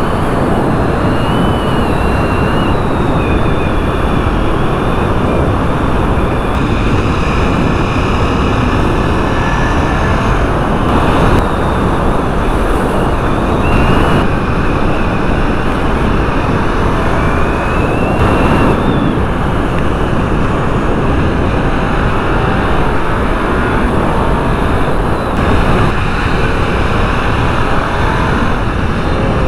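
Heavy wind rush on a helmet-mounted microphone at riding speed, over the KTM 990 Super Duke's V-twin engine running, its pitch rising and falling a few times.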